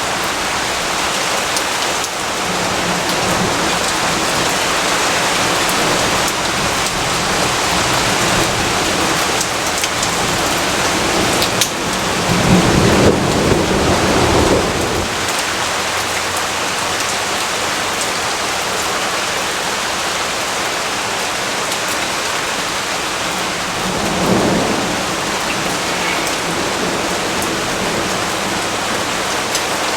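Steady heavy rainfall with two rumbles of thunder: a longer, louder one about twelve seconds in and a shorter, fainter one about twenty-four seconds in.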